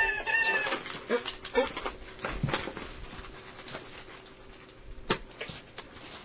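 A brief high, squeaky whine in the first second, followed by scattered clicks and rustling of handling, with one sharper click about five seconds in.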